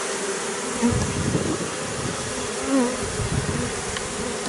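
Honeybee swarm buzzing in a steady drone while the bees go into their new hive through a narrowed entrance reducer, with a few single bees flying close by and changing pitch as they pass.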